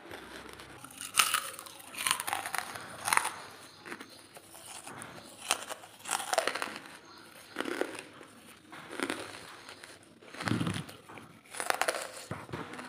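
Close-miked crunching and chewing of lumps of dry charcoal, a crisp crackly crunch about every second.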